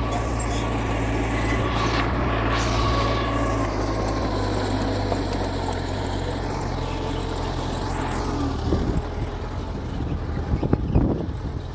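Mitsubishi bulldozer's diesel engine running steadily, with a few brief high squeals. Near the end the engine note drops away and irregular rattling takes over.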